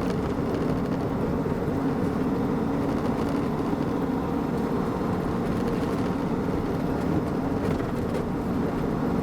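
Bremach camper truck driving at a steady pace: an even mix of engine and road noise.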